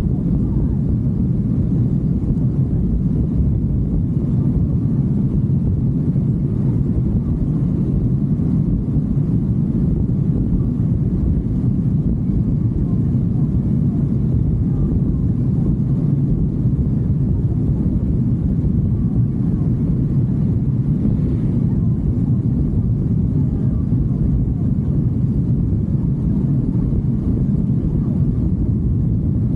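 Steady low rumble of a motorcycle under way, without change in pitch or level.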